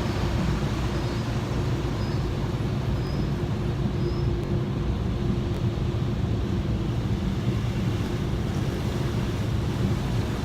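Automatic car wash running, heard from inside the car as it is carried through: a steady mechanical hum with an even rushing noise.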